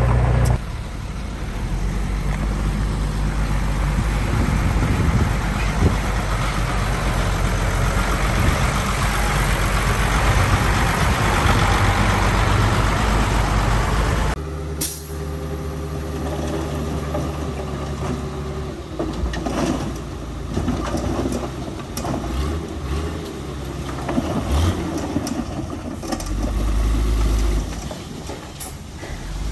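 Heavy-duty truck diesel engine running, with a strong low drone. About halfway through the sound changes suddenly to a quieter running engine with scattered clicks and knocks.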